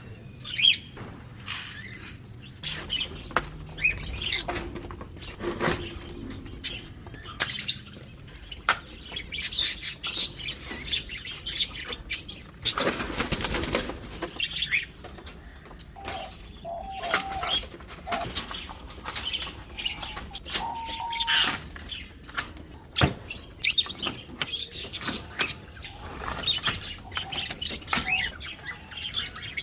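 Caged pet birds chirping and fluttering, with scattered clicks and knocks throughout and a louder burst of noise about a second long around the middle.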